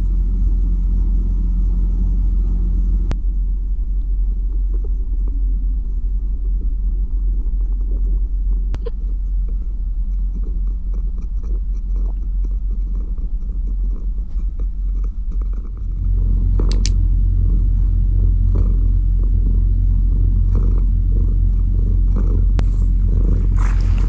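Domestic cat purring close to the microphone, a steady low rumble that grows louder about two-thirds of the way through.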